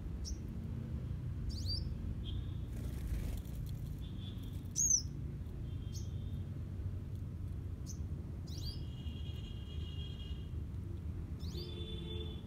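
Small birds chirping: about eight short, high calls that sweep sharply downward, scattered through, with buzzier steadier notes between them over a steady low rumble. A brief rush of noise about three seconds in.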